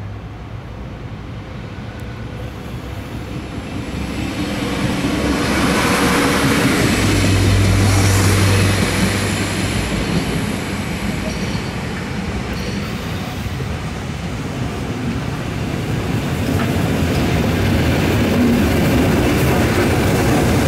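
A train running through a railway station, its rolling noise swelling to a peak about eight seconds in, easing off, then building again near the end.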